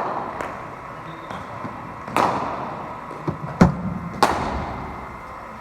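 Cricket ball impacts during bowling-machine batting practice: sharp cracks with a ringing tail about two seconds in and again near the end, and a duller thud between them.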